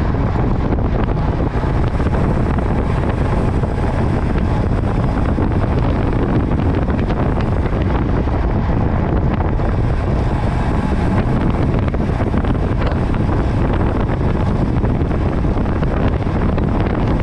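Steady, loud wind rush buffeting the microphone of a camera carried on a road bicycle that is moving at speed.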